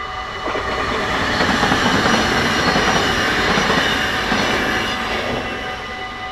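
A train passing through a Dutch level crossing, its wheel and rail noise swelling up about half a second in and fading away after about five seconds. Under it the crossing's warning bell keeps ringing steadily.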